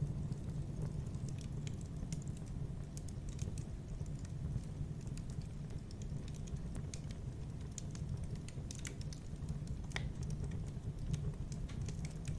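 Wood fire in a fireplace crackling: scattered sharp pops and snaps over a steady low rumble of burning, with one louder crack about ten seconds in.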